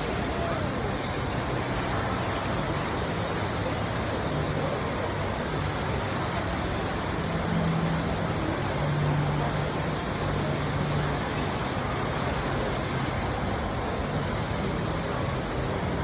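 Large indoor man-made waterfall pouring steadily: a continuous, even rush of falling water.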